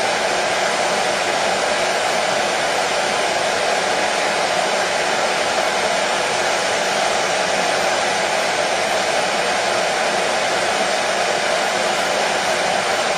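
Hair dryer running steadily, a constant airy whoosh with a faint hum, used as white noise to soothe a colicky baby to sleep.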